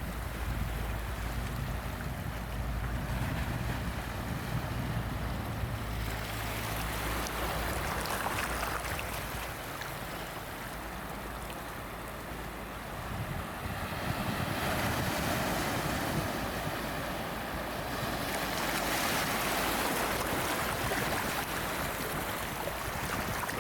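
Ocean waves breaking and washing on a shore, a steady rush of surf that swells louder several times, most strongly in the second half.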